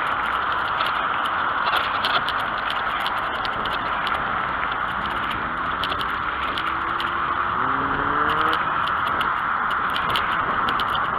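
Bicycle ridden off-road over bumpy ground: steady wind and tyre noise with frequent rattling clicks from the jolts. Midway a vehicle engine is heard rising in pitch for a few seconds.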